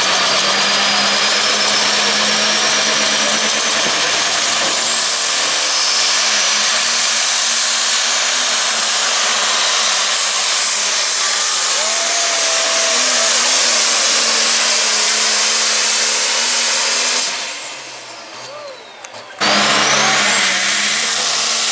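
Light pro stock pulling tractor's turbocharged diesel engine running hard under load, with a high whine climbing steadily in pitch. Near the end the sound fades for a couple of seconds, then cuts back in suddenly with another whine rising quickly.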